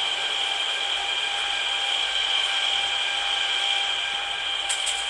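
Steady electric whine and hiss of a MEMU electric train, several fixed tones held without change, with a few sharp clicks coming in near the end.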